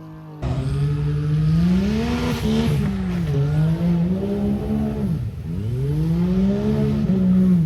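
Off-road vehicle engine revving hard, its pitch climbing and falling several times, with a sharp drop about five seconds in before it winds up again.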